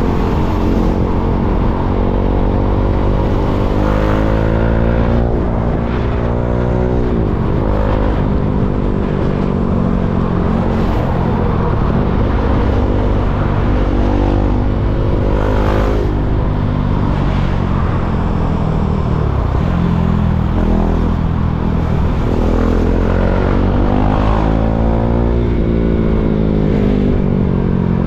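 KTM Duke 390's single-cylinder engine running as the bike rides in slow traffic. Its pitch climbs as it revs up and drops sharply several times at shifts or throttle-off.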